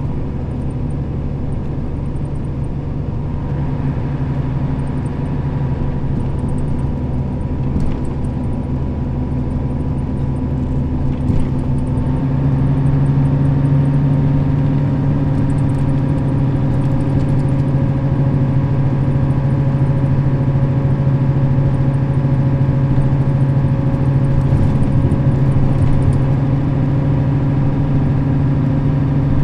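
Nissan Diesel KL-RA552RBN bus's diesel engine running steadily as the bus drives, rising a little in pitch and loudness about twelve seconds in, then holding steady.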